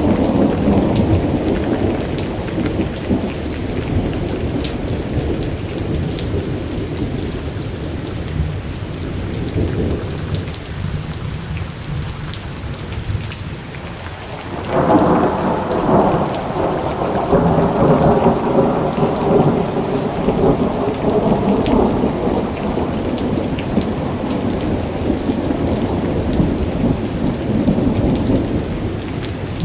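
Thunderstorm: steady rain with rolling thunder. The rumble fades away over the first half, then a new thunderclap breaks about halfway through and rolls on for several seconds.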